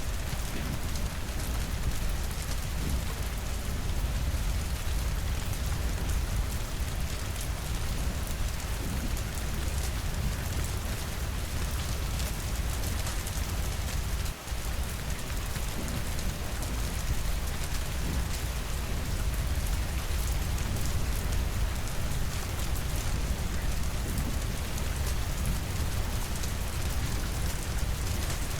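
Steady heavy rainfall: a dense, even hiss of drops over a deep low rumble, with a momentary dip in level about halfway through.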